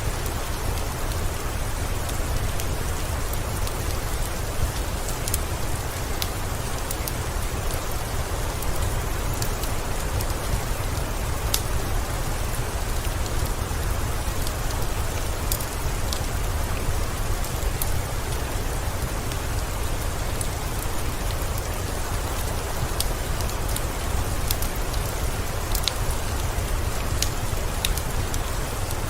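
Steady rain falling, mixed with the scattered sharp crackles of a wood fire and a low, even rumble underneath.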